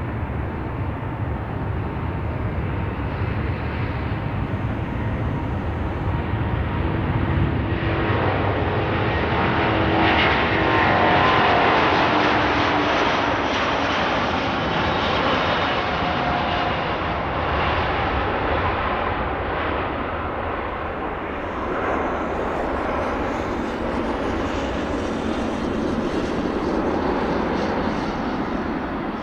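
Fixed-wing aircraft passing by, its engine noise building to a peak about ten to twelve seconds in, with tones sliding down in pitch as it goes past, then swelling again near the end.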